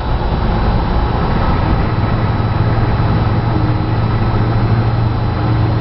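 Vehicle engine running steadily, a loud, even low drone with road and engine noise over it.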